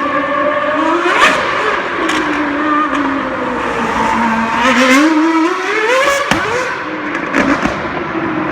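Mercedes AMG Formula One car's engine being revved, its pitch falling and rising, climbing steadily for about two seconds before dropping sharply, with a few short sharp cracks along the way.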